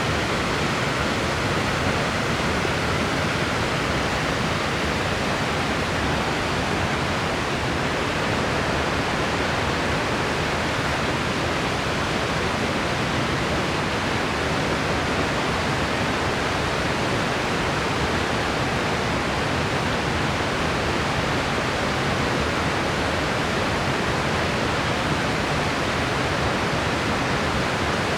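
Steady white noise: an even, unchanging hiss with no rise, fall or breaks.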